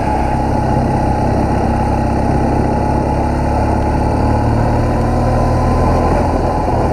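BMW R1200GS boxer-twin motorcycle engine running steadily as the bike rides along, its note rising slightly about halfway through.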